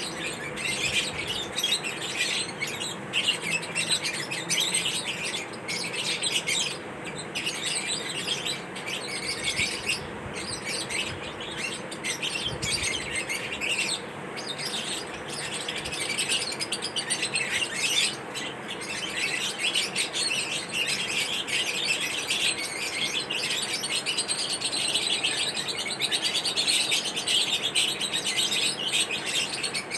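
Lovebirds chirping in a dense, unbroken run of high, rapid chirps.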